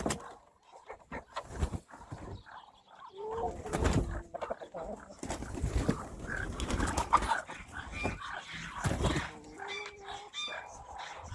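Domestic hens clucking in short, irregular calls, with scattered knocks and rustling.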